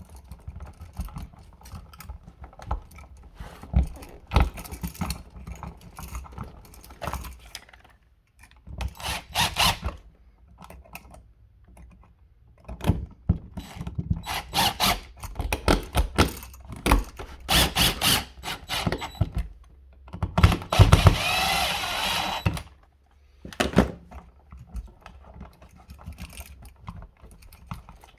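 Irregular clicks, knocks and rattles of hand tools and an electrical receptacle with its wires being worked back into a wall box, with a steadier stretch of scraping noise lasting about two seconds about three quarters of the way through.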